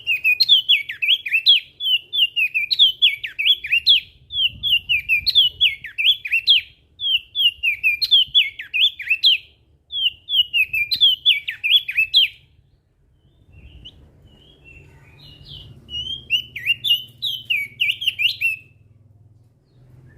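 Crested darkeye (opior jambul) singing: fast, chattering runs of sweeping whistled notes in phrases of about two seconds, separated by short gaps. The song stops for about three seconds in the middle, returns for one more phrase, and stops near the end, over a faint low hum.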